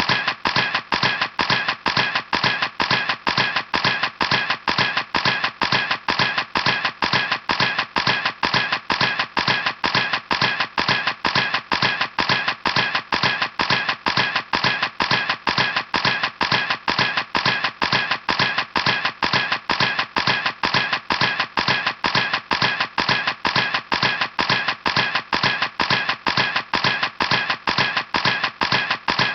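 Camera shutter clicking over and over at an even pace, about three clicks a second, each click the same.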